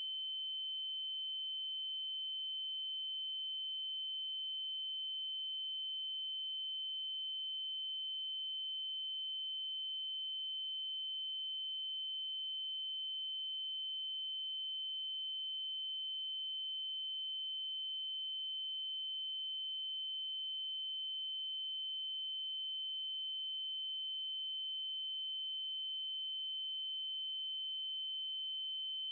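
A steady 3072 Hz triangle-wave test tone: one constant high-pitched electronic pitch with faint overtones above it, unchanging throughout.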